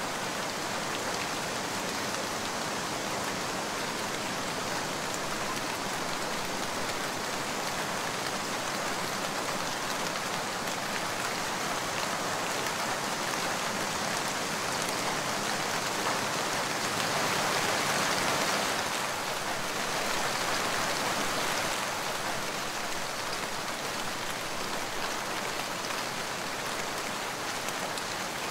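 Steady light rain, a rain sound effect laid over the picture, swelling a little louder a little past the middle.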